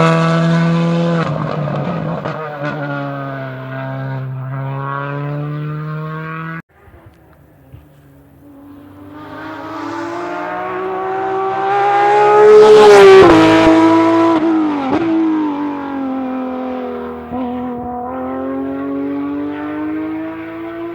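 A rally car's engine pulling away at speed, its note falling as it goes, breaks off abruptly. A second rally car then approaches, passes about two-thirds of the way in with a drop in pitch, and accelerates away through several gear changes.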